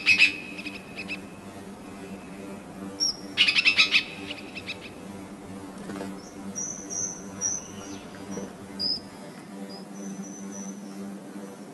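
Small songbirds calling: a burst of rapid chattering notes at the start and another about three and a half seconds in, then a series of thin, high whistled notes, over a steady low hum.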